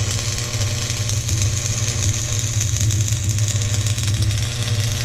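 Stick-welding arc from an AC buzz-box welder: a steady crackling hiss over a low electrical hum.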